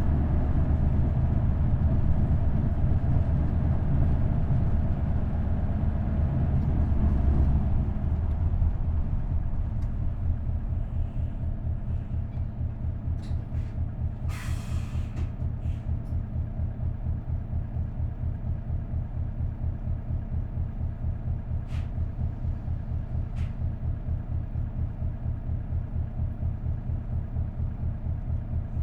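Isuzu Erga bus's V8 diesel engine running loudly, then dropping about nine seconds in to a steady idle with an even pulse of three or four beats a second. A burst of air hiss from the bus's air system comes about halfway through.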